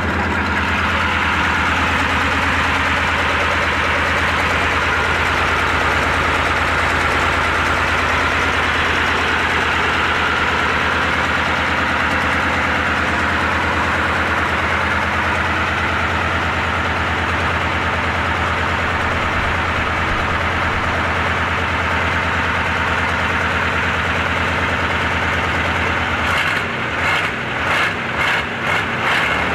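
Tatra engine idling steadily with a low, even beat. About three seconds before the end the sound turns to an uneven pulsing.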